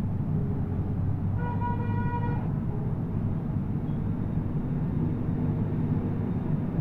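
Steady low rumble with one horn-like honk, a single pitched tone lasting about a second, starting about a second and a half in.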